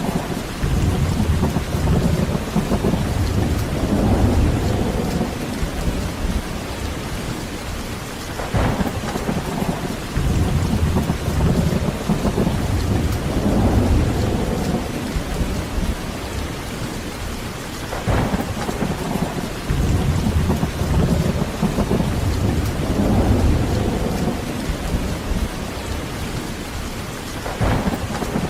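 Heavy rain falling steadily, with thunder rolling in low rumbles that swell and fade three times, each roll starting with a faint crack.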